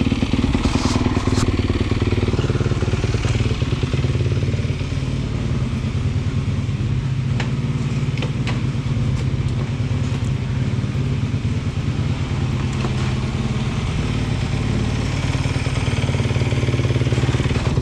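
A dirt bike's single-cylinder engine idling steadily, with a few light clicks.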